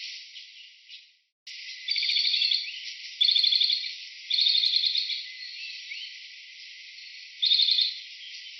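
Insect chirping in short, rapid pulsed trills, four bursts of under a second each, after a brief break about a second in.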